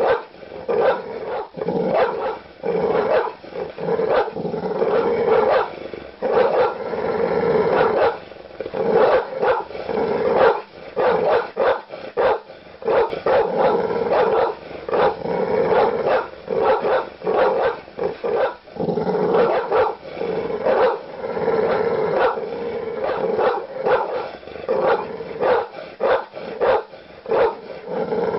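Large dog barking aggressively with deep, loud barks, several a second in a continuous run with only brief pauses.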